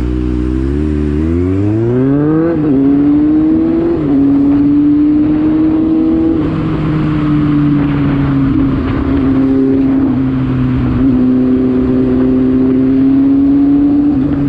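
Motorcycle engine accelerating, its pitch climbing for about two seconds, then dropping at a gear change and settling into steady cruising revs.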